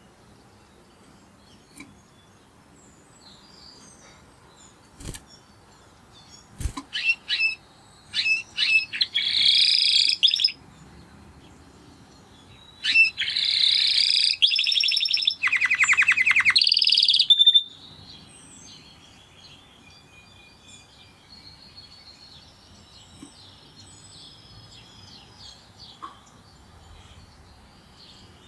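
Spanish Timbrado canary singing: two loud phrases of song with rapid trills, starting about 7 and 13 seconds in. Fainter chirps from other birds run between them.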